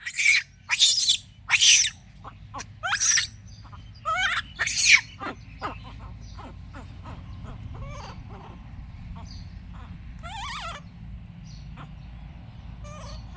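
A small pet monkey giving loud, high-pitched squeaky calls, about six in the first five seconds, some sliding in pitch, followed by fainter scattered chirps.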